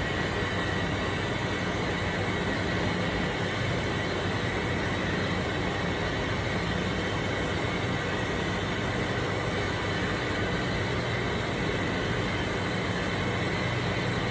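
Steady machine noise: an even rush with a low hum underneath, unchanging throughout.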